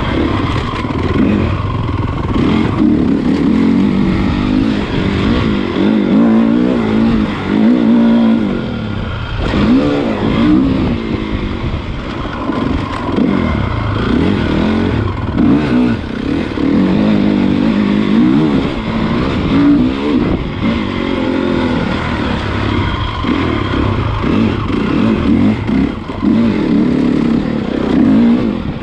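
Honda CRF450 motocross bike's single-cylinder four-stroke engine being ridden, revving up and falling back again and again as the throttle is opened and shut.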